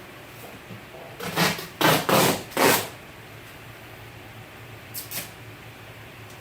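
Duct tape being pulled off the roll: a run of loud rips about a second in, then two short, fainter tears near the end.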